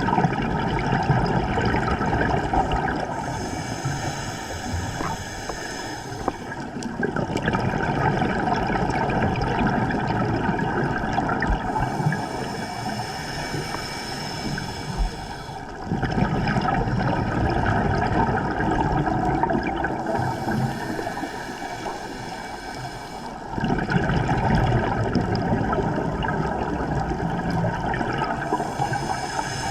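Scuba diver breathing through a regulator underwater, recorded close to the diver: four slow breaths, each a quieter hiss on the inhale followed by a loud rush of gurgling exhaled bubbles.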